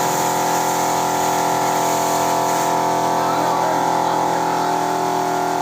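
A machine running with a steady, even drone of many held tones, with a high hiss over it that drops away about two and a half seconds in.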